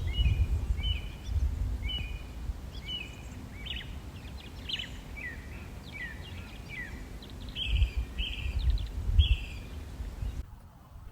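Small songbirds chirping in quick repeated short calls over a low, uneven rumble. Both cut off abruptly just before the end.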